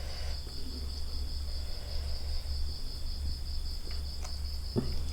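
Crickets trilling steadily in a high, fast-pulsing buzz over a low hum, with one short click near the end.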